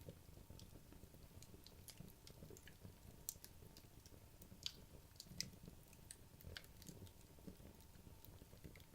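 Wood logs burning in a fireplace, crackling quietly: irregular small snaps and pops over a soft low rumble, with a few sharper pops around the middle.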